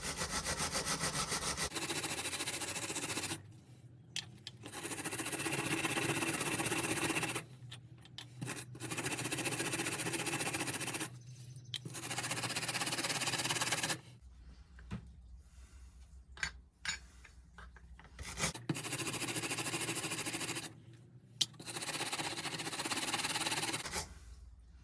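Brush scrubbing against a diecast metal toy car body to clear off old paint, in six spells of rough rubbing a few seconds each with short pauses between, and a few light clicks in the longer pause in the middle.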